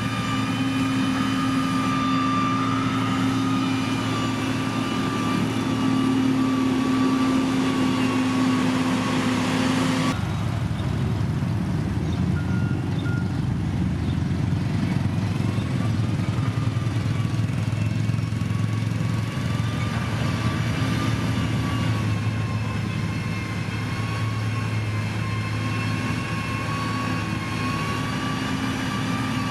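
Heavy diesel engine of road-construction machinery running steadily under load. The sound changes abruptly about ten seconds in, then the steady engine tone builds back.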